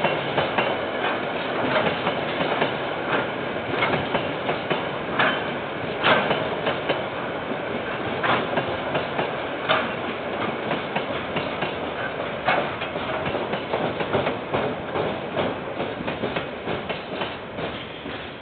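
A train's wagons rolling past with their wheels clicking irregularly over the rail joints, dying away over the last few seconds as the train moves off. Heard through a security camera's microphone.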